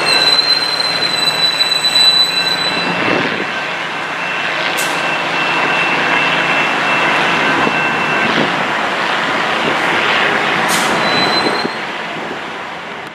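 Amtrak passenger train running away along the track, its wheels squealing on the rails in thin, steady high tones over the continuous rumble of the wheels. The sound drops off suddenly near the end.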